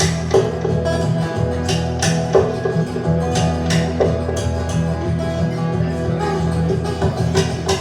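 Live music: a guitar-led instrumental passage with held low notes and sharp strummed or struck accents.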